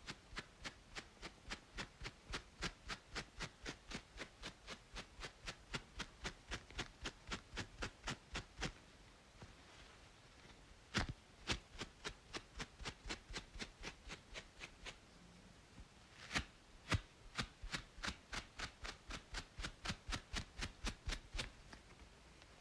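Close-miked scalp scratching between braids: quick, crisp strokes about three to four a second, in three runs broken by short pauses, over a faint steady hiss of white noise.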